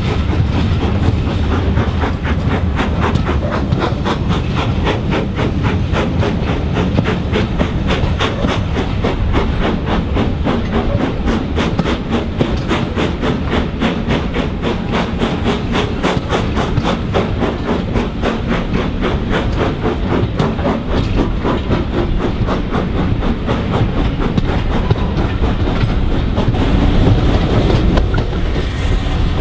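Passenger train running along the line, heard from an open carriage window: a steady rumble with rapid regular clicking of the coach wheels over the rails. It gets a little louder near the end.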